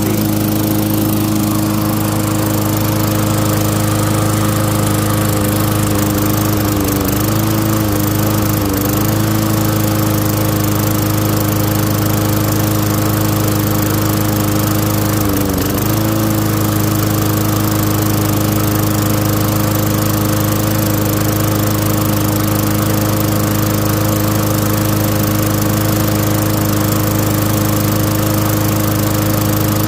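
Craftsman lawn mower's Tecumseh engine running steadily, its speed dipping briefly about seven, nine and fifteen seconds in before settling back.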